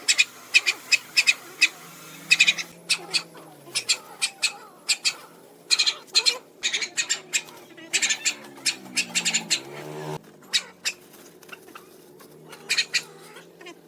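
Birds squawking in many short, quick calls, with a lower call that glides up and down underneath at times.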